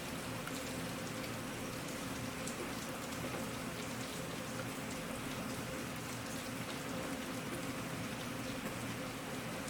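Steady rain falling, an even hiss with many small drop ticks of raindrops striking a surface.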